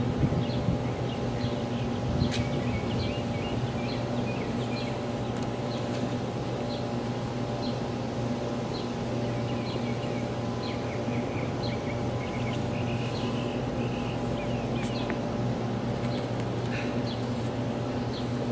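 A bird chirping, short high notes repeated about once a second with a quicker run of them partway through, over a steady mechanical hum.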